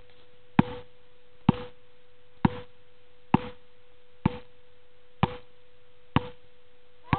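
Basketball being dribbled on a hard court: eight sharp bounces at an even pace of about one a second, gradually getting a little softer.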